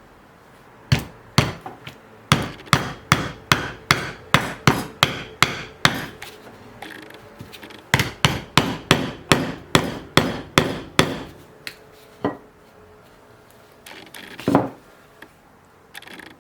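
Hammer blows struck in quick succession, about three a second, in two runs of several seconds with a short pause between them, followed by a few single knocks.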